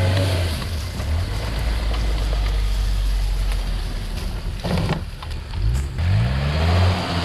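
Off-road vehicle engine running steadily, easing off about four and a half seconds in with a short thump, then revving back up with a rising pitch.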